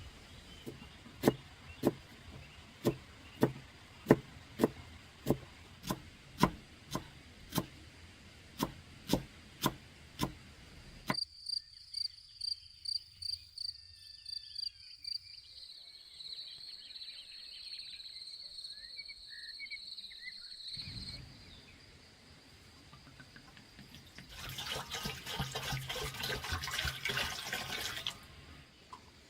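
Sharp, regular knocks, about two a second for some ten seconds, then quicker, softer knocks for a few seconds. Later comes about four seconds of loud rushing, splashing noise.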